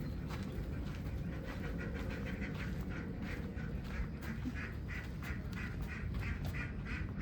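A flock of ducks quacking: many short, overlapping quacks, several a second, over a steady low rumble.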